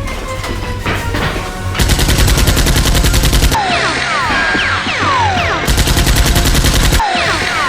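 Machine-gun fire sound effect in two rapid bursts, about two seconds in and again near six seconds, with short falling whistling tones between the bursts, over background music.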